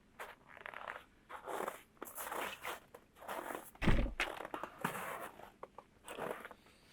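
Irregular crunching and rustling, with one heavy thump about four seconds in.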